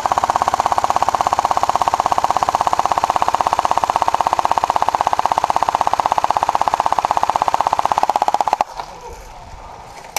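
Airsoft gun firing full-auto in one long, unbroken burst of rapid, evenly spaced shots, like a machine gun, lasting about eight and a half seconds before stopping suddenly.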